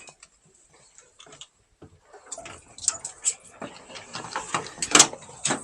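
Light, irregular clicks and taps of walking, a person and small dogs on the move. They are sparse at first and grow busier about two seconds in, with one sharper click about five seconds in.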